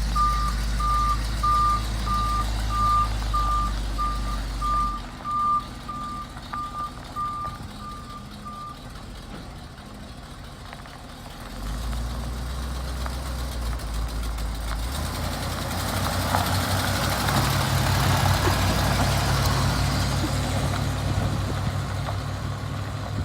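Large truck's reverse alarm beeping steadily, about one and a half beeps a second, over its idling diesel-type engine rumble; the beeping stops about nine seconds in. The engine then picks up again and runs louder under load from about fifteen seconds in, as the truck moves off.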